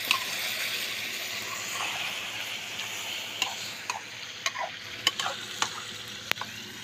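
Chicken pieces frying and sizzling in an aluminium karahi while a metal spatula stirs them. The sizzle thins out after about three seconds, leaving scattered sharp clicks and taps.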